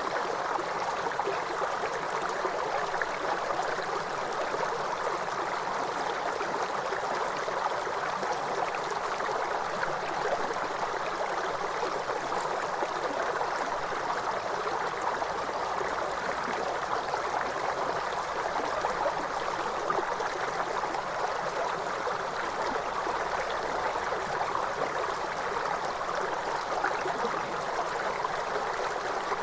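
Waterfall: a steady, even rush of falling and splashing water with no breaks or changes.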